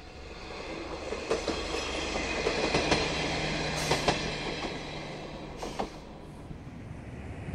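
KiHa 40 diesel railcar passing by, its wheels clicking over the rail joints. The sound builds up, is loudest about three to four seconds in and fades as the car moves away.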